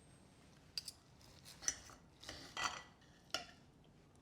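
A few quiet, separate taps and scrapes of cutlery against dishware, about six over four seconds, with no steady sound between them.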